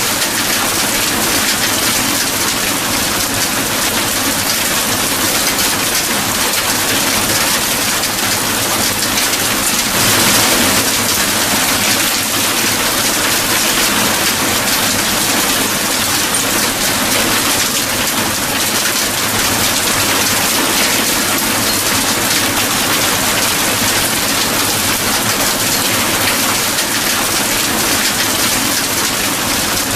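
Steady heavy rain falling, a dense even hiss of drops on surfaces, swelling briefly about a third of the way in.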